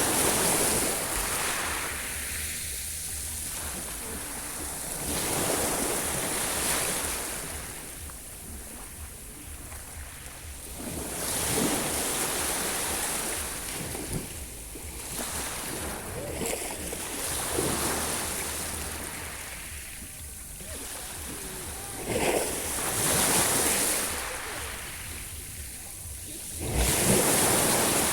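Sea waves breaking and washing in, rising in a surge every five seconds or so.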